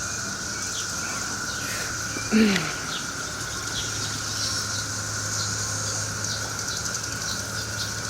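Steady drone of a chorus of 13-year periodical cicadas. About two and a half seconds in, a brief loud buzz with a falling pitch passes close by.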